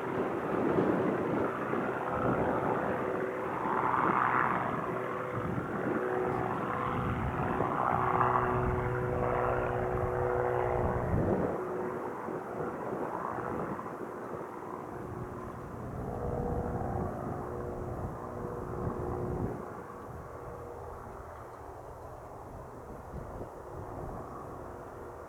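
Airplane engine at takeoff power as the plane departs. The sound is strongest in the first half and fades over the second half as the plane climbs away.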